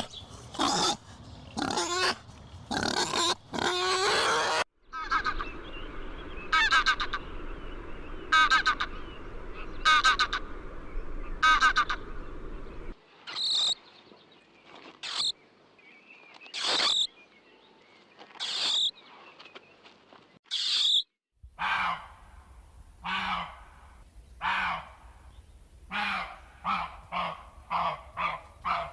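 A string of different animal calls, changing to another animal about every five to eight seconds, each repeating its cry several times.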